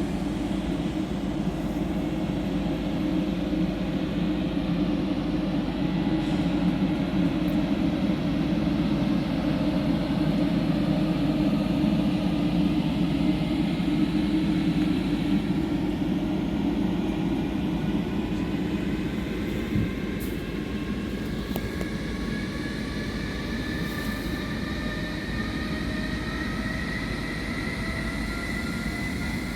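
A train running with a steady rumble. From about two-thirds of the way in, a whine of several tones rises steadily in pitch, as when the train picks up speed.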